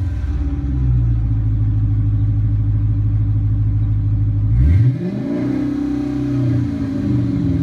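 Whipple-supercharged 5.7 L Hemi V8 of a 2015 Dodge Charger R/T idling through a Flowmaster 40 muffler with the resonator deleted. A little over halfway through it is revved once sharply, holds briefly, then falls back to a steady idle.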